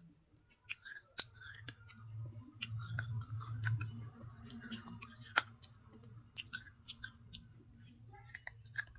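Close-miked chewing of crunchy baked clay pot pieces: many sharp, irregular crunches and clicks from the mouth, over a low hum that swells about two to four seconds in.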